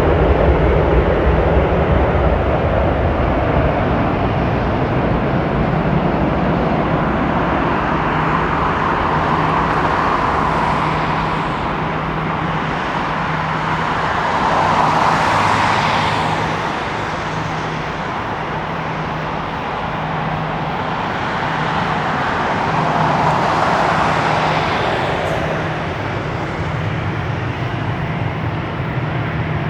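Jet engine noise of a McDonnell Douglas MD-11F trijet freighter, a steady loud rush with a low hum under it, swelling twice and slowly easing off.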